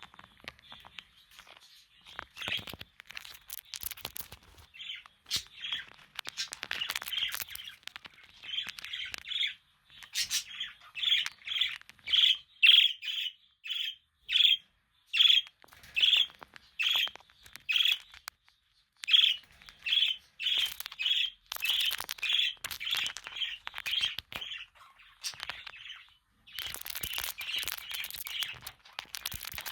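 Budgerigars chirping: a run of short, repeated chirps, about two a second through the middle, mixed with sharp clicks and scratchy noises.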